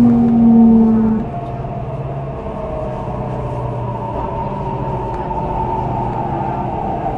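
Metro train running, heard inside a motor car: the Mitsubishi IGBT-VVVF traction inverter and motors whine in several slowly gliding tones over steady running rumble. A strong low drone stops about a second in.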